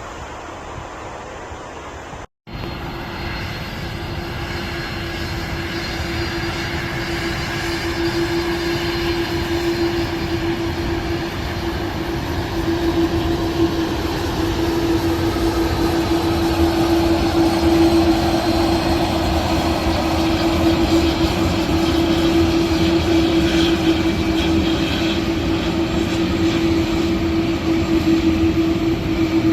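Jet airliner engines running with a steady roar and a constant whine, growing gradually louder. There is an abrupt cut about two seconds in.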